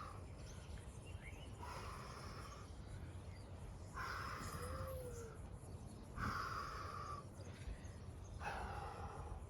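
Heavy, rhythmic breathing of a man exercising hard, one forceful breath about every two seconds.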